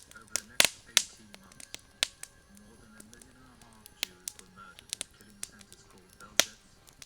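Campfire crackling: irregular sharp pops and snaps of burning wood, several loud ones among many small ticks. A faint low wavering tone sits underneath in the middle.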